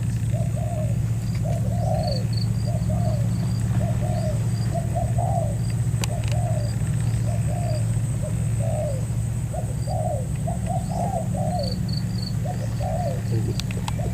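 Spotted doves cooing over and over, short coo notes following each other in quick succession, over a steady low hum.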